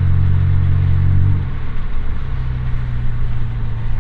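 Honda Accord's engine and exhaust droning steadily, heard from inside the cabin while driving. About a second and a half in, the drone drops in loudness and carries on at a lower level.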